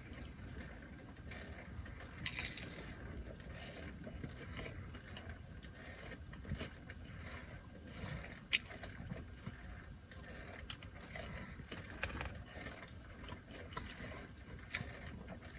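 Quiet eating sounds: scattered small clicks, crinkles and rustles of handling fast food and its paper packaging, over a low background rumble.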